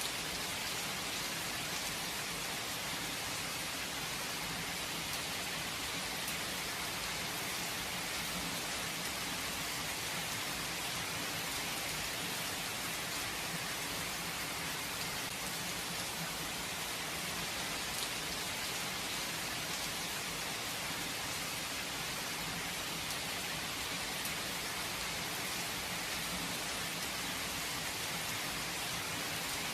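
Steady rain falling without thunder, an even hiss with faint drop ticks.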